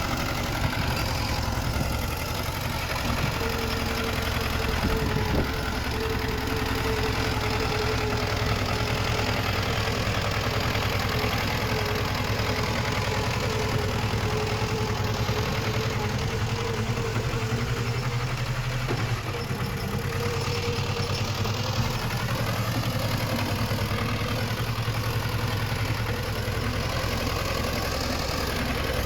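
Diesel engine of heavy earthmoving machinery running steadily, with a steady high whine over it from a few seconds in until about two-thirds of the way through.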